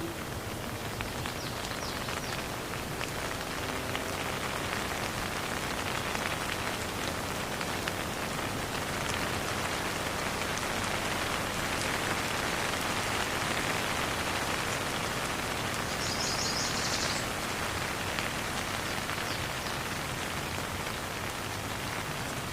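Steady rain falling, a little heavier in the middle, with no thunder. A short high chirp sounds about two-thirds of the way through.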